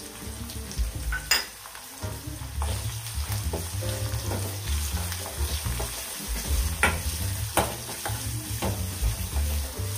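Sliced onions, curry leaves and ground garlic frying in oil in a stainless steel kadai, sizzling as a steel spoon stirs and scrapes them round the pan. Sharp metal-on-metal clinks come about a second in and twice around seven seconds.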